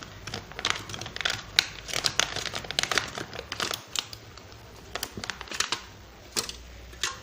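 Thin aluminium sheet cut from a drinks can, crinkling and clicking irregularly as it is handled and wiped clean.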